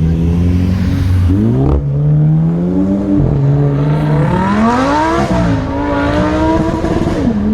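A car engine revving: it idles, climbs in pitch three times with sudden drops in between, then settles back to idle near the end.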